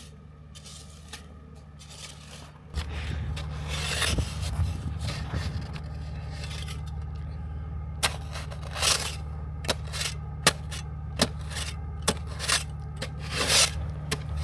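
Ford Raptor pickup's engine idling with a steady low hum, which gets louder about three seconds in. Over it come scraping sounds and, from about eight seconds in, a run of sharp clicks.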